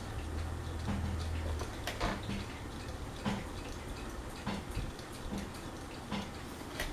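Craftmade Phoenix ceiling fan running on medium, the whole fan wobbling badly, with irregular clicks and knocks a couple of times a second. A low hum sounds for the first second and a half.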